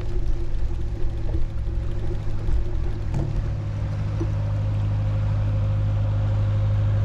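Narrowboat's diesel engine running at a steady low hum, growing slightly louder and steadier about halfway through as the boat comes close. Irregular knocks in the first three seconds.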